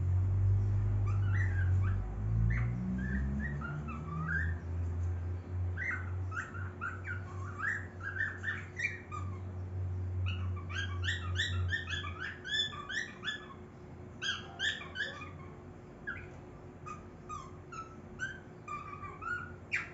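Baby cockatiels calling with many short chirps that rise and fall in pitch, in quick runs. A low hum lies underneath and stops a little past halfway.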